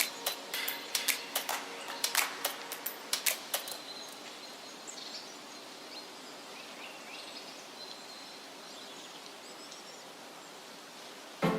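Outdoor background hiss with faint, scattered birdsong chirps. In the first few seconds there is a run of sharp, irregular clicks or crackles.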